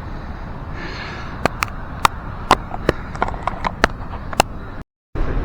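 About a dozen sharp, irregular taps over roughly three seconds, over a steady rushing noise. The sound cuts out completely for a moment near the end.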